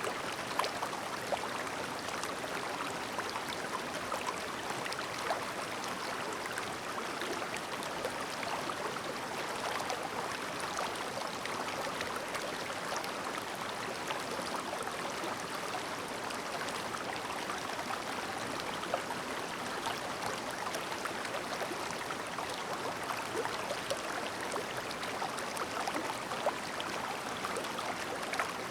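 Clear, shallow river babbling steadily: an even rush of flowing water with frequent small splashes.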